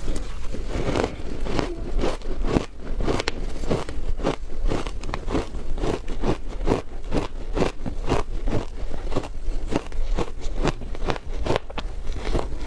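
Close-miked biting and chewing of frozen matcha ice, a steady run of crisp crunches at about three a second.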